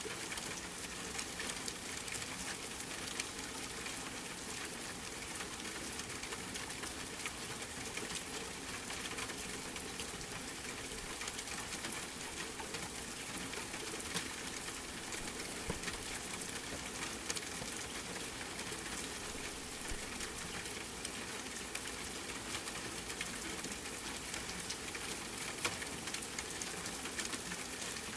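Steady rain mixed with a crackling wood fire: an even hiss dotted with frequent small, sharp pops.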